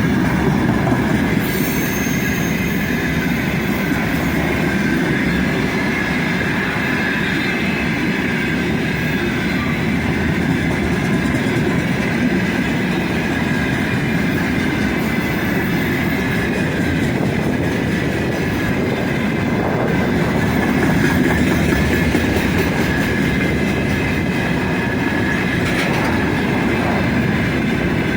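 Heavy freight train of about 73 wagons rolling steadily past, a continuous rumble of wheels on the rails with a thin, steady ringing tone above it.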